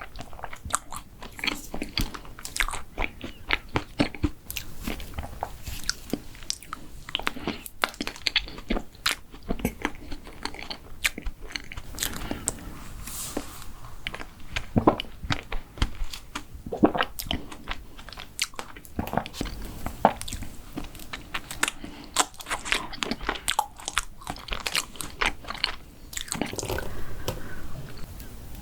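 A person biting and chewing mint chocolate desserts close to the microphone, with many sharp, irregular crunches.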